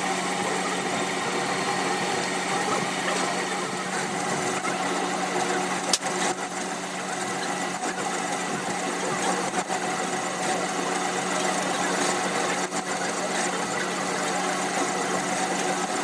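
A workshop machine running with a steady hum and whine, with a few short sharp clicks or taps over it.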